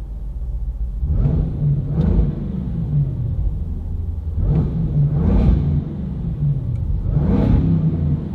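Land Rover Defender 110's 5.0-litre supercharged V8 exhaust rumbling at idle, blipped about five times with short throttle stabs that rise and fall quickly.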